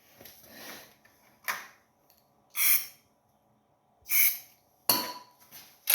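Trash pump's small engine being pull-started: a few short, separate rasps of the recoil starter about a second apart, the engine not catching.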